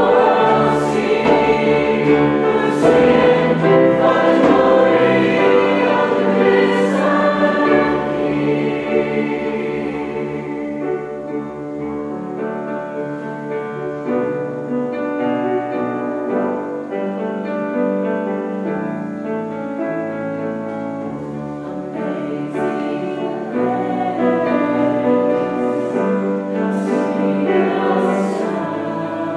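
Choir singing a slow, sustained choral piece with held chords. Loud for the first several seconds, softer through the middle, then swelling again near the end.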